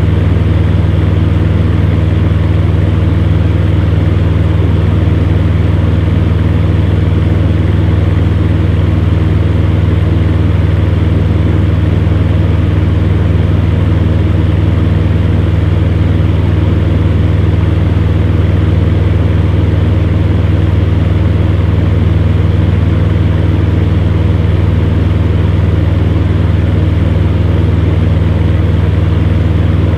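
Electric fan running steadily, a deep hum under an even rush of air.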